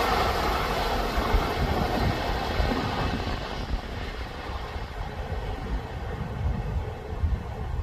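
LNER Azuma passenger train running away down the line, its noise fading steadily; the higher hiss dies out first, leaving a low rumble.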